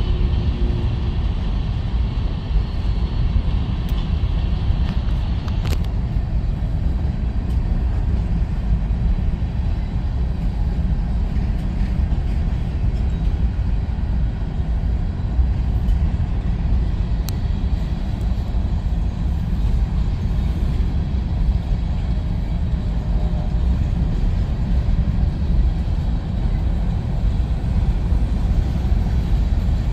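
A train rolling past, a steady low rumble with no letup.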